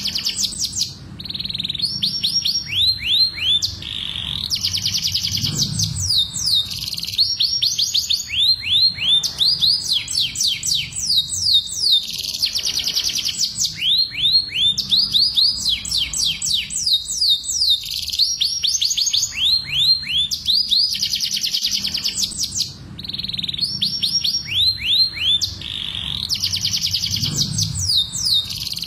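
Domestic canary singing a long, continuous song of rapid trills: each phrase is a fast run of repeated falling notes, switching to a new phrase every second or two. This is the canary's mating song.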